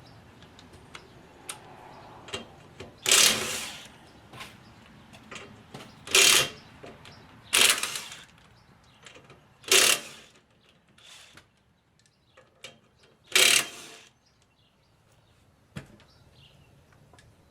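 A power tool run in five short bursts, each well under a second, with small clicks between.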